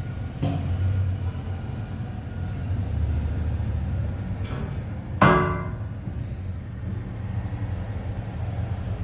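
A steady low engine rumble of heavy machinery, with a few light knocks and one sharp metallic clang that rings briefly about five seconds in.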